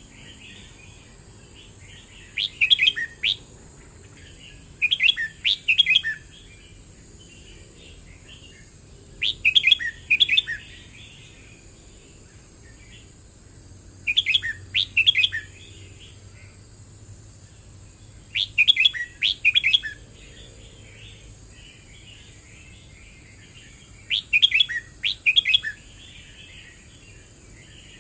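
Red-whiskered bulbul singing: six short, loud, warbled phrases, repeated about every four to five seconds, with softer chattering notes between them.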